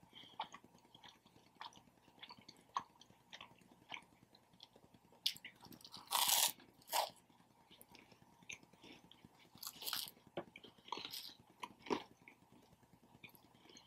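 Close-miked chewing and biting of a Subway sub sandwich: a steady run of small wet mouth clicks, with a few louder, crunchy bursts near the middle and again a little later.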